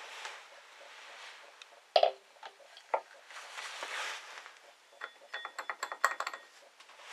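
Metal tools and parts clinking and knocking during hands-on work on a scooter engine: two sharp knocks, then a quick rattling run of ringing metallic clicks.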